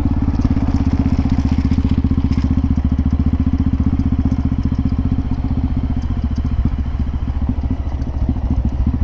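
Single-cylinder trail motorcycle engine running steadily at low revs, with an even, rapid beat.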